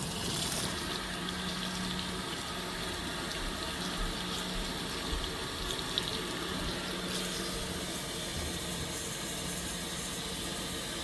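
Fisher & Paykel MW059 top-loading washing machine filling its tub: a steady rush of water pouring in, with a faint low hum underneath.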